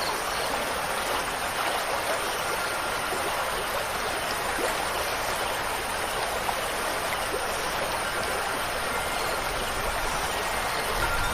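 Steady rushing of running water, an even hiss with no breaks. Faint ringing wind chime tones come in near the end.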